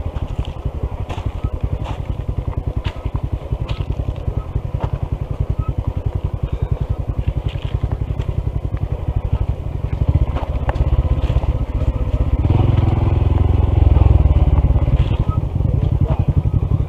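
Honda CT125's air-cooled single-cylinder engine running with a rapid, even thump of firing pulses, getting louder about ten seconds in, with scattered sharp knocks over it.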